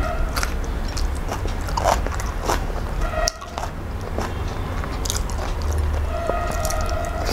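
Close-miked eating: a bite into a fresh green chili, then chewing with many short wet mouth clicks and smacks.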